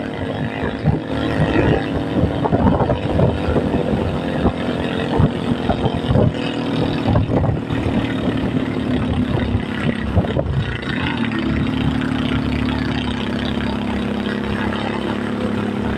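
Motor vehicle engine running on the road, with frequent short knocks and rattles over the first part. About two-thirds of the way through, the engine note steps up and holds steady.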